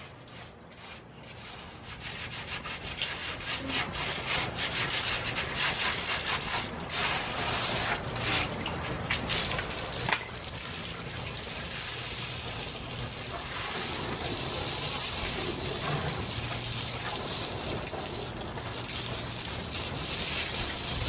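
Porch being cleaned: quick rubbing strokes of a brush for several seconds, then a steady rushing hiss from about ten seconds in.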